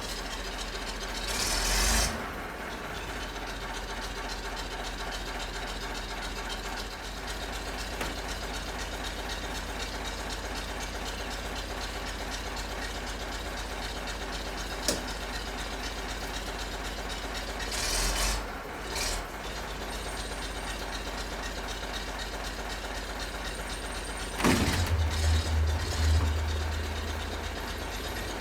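Vintage Volvo tractor engine running at idle with a steady mechanical rattle. It swells briefly a couple of times, and near the end the low engine note rises louder for a few seconds.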